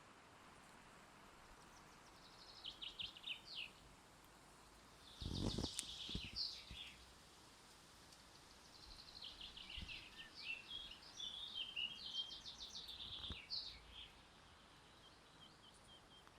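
A songbird singing in three phrases of rapid trilled notes, the longest near the end, over a faint steady outdoor background. A low thump about five seconds in.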